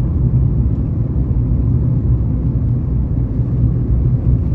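Steady low rumble of a car driving along a road: engine and tyre noise with no change in pace.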